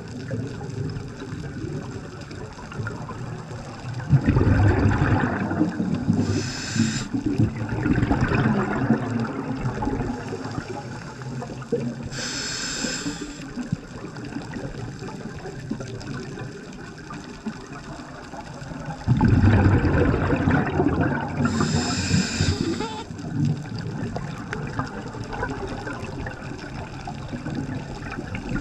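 Scuba diver breathing through a regulator underwater: two loud, bubbling rushes of exhaled air about fifteen seconds apart, and three short hisses of inhalation through the demand valve, over a steady low wash of water.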